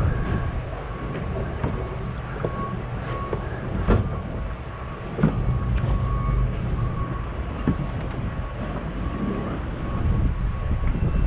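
Steady low rumble of a boat under way, with wind on the microphone and a faint steady whine; two sharp knocks about four and five seconds in.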